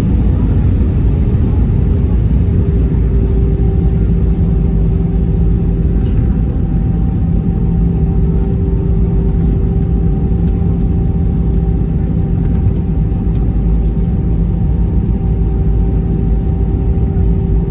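Airbus A319 cabin noise: a loud, steady low rumble of the engines and the airframe, with a steady pitched hum that comes in about three seconds in and holds.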